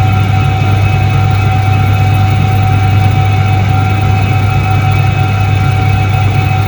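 1978 Soviet Iset-3 washing machine running: a steady, unchanging motor hum, with a strong low drone and a constant higher tone above it.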